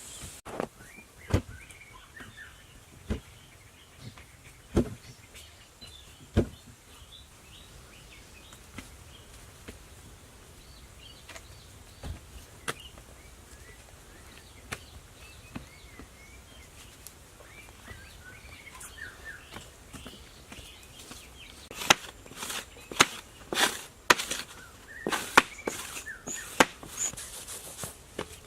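Single sharp knocks at a slow, even pace for the first few seconds, then birds chirping. Near the end comes a quick run of sharp knocks and taps.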